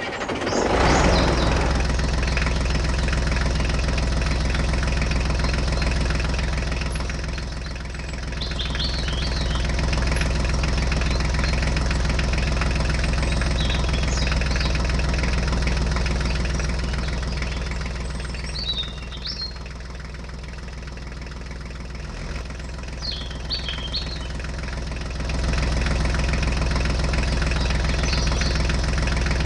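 Engine running steadily with a low, even hum, easing off a little about 8 s in and again for several seconds near the middle-end before coming back up.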